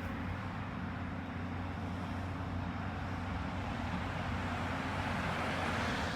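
Steady low diesel drone of heavy demolition machinery working, mixed with a vehicle rumble that swells toward the end; no crashes or impacts.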